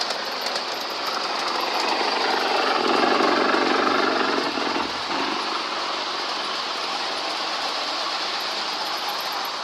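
Diesel freight train passing: the engine noise swells to a peak about three to four seconds in, then settles to a steady, lower run.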